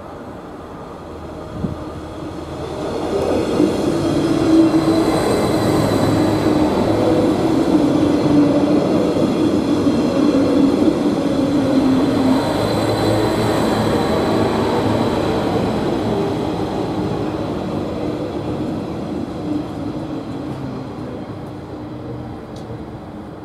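An Arriva regional diesel train passing close by. It builds up over a couple of seconds, runs loudly for about ten seconds with a thin high tone over the rumble of engine and wheels, then slowly fades away.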